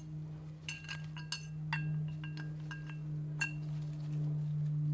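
Small metal turbocharger parts clinking as they are handled and fitted: about ten light clicks over a few seconds, each ringing briefly like a little chime, over a steady low hum.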